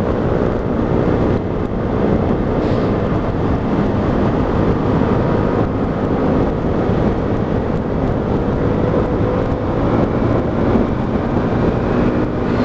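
125cc motorcycle engine running at road speed, mixed with heavy wind noise buffeting the rider's microphone; the level stays steady throughout.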